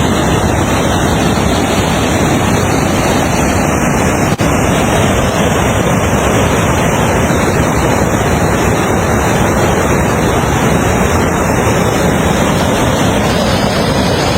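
Loud, steady rushing of floodwater, with no change in level.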